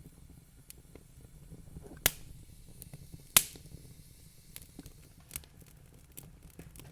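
Wood fire crackling: scattered small pops and snaps over a low steady rumble, with two sharp, louder pops a little over a second apart, about two seconds in.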